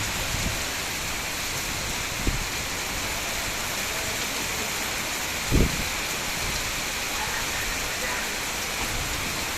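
Heavy rain falling in a steady, even hiss, with two short low thumps; the louder one comes about five and a half seconds in.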